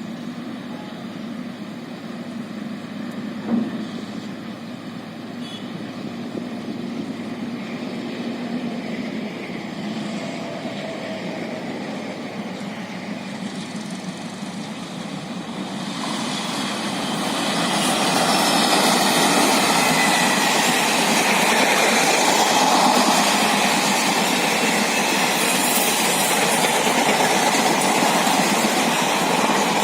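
Chetak Express superfast passenger train running through a station without stopping. A steady low rumble for the first half grows, a little past halfway, into a loud rush of wheels on rails as the train goes by at speed.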